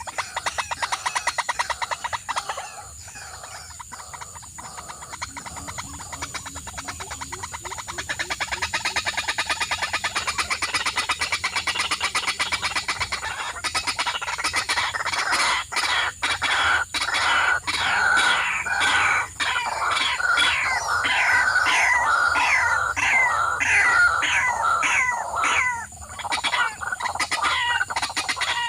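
Birds calling: dense rapid chirping, then from about halfway a long run of repeated falling calls, roughly two a second.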